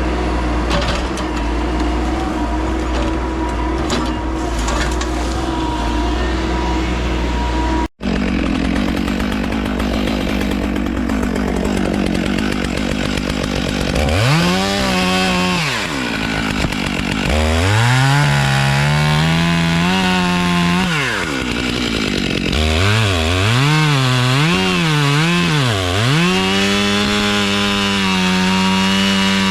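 Steady engine hum, cut off abruptly about a quarter of the way in. Then a two-stroke chainsaw revs: its pitch climbs and drops twice, blips up and down quickly several times, and holds at high revs near the end.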